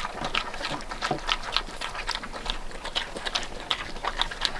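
Pigs eating from feed piles: a rapid, irregular run of wet chomping and smacking clicks.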